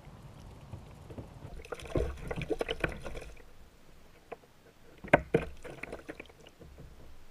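Knocks and clatter on a fishing kayak: a run of rattling knocks about two seconds in, then one sharp knock about five seconds in, with lighter clicks after.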